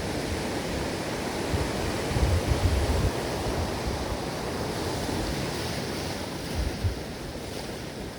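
Ocean waves washing steadily onto a beach, with low rumbles of wind on the microphone, strongest about two to three seconds in.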